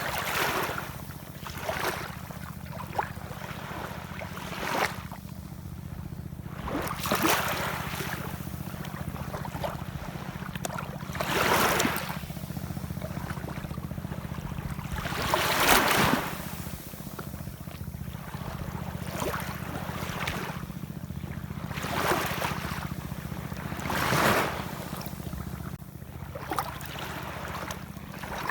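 Ocean waves washing and breaking in irregular surges, about seven of them, each swelling and fading over a second or two. A steady low hum runs underneath.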